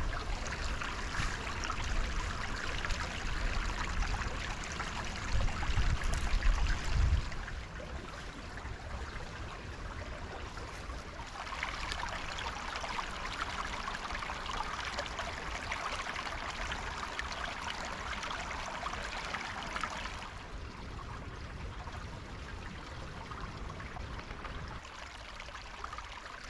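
Woodland stream running steadily over stones. A low rumble sits under it in the first seven seconds and is loudest about six to seven seconds in.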